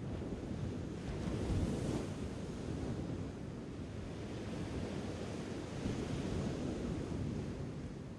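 Ocean waves washing in, a steady rush that swells and eases, with the biggest surge about a second and a half in.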